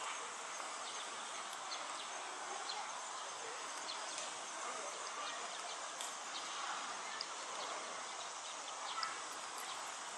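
Steady outdoor background noise with short, high chirps or ticks scattered through it.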